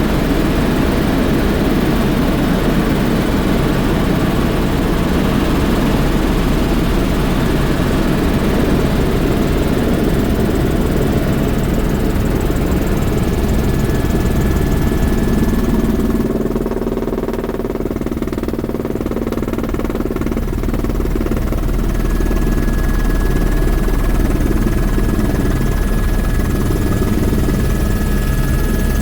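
Sightseeing helicopter's engine and rotor drone, loud and steady. A little past the middle the hiss fades for a few seconds and a lower hum comes forward, then the full sound returns.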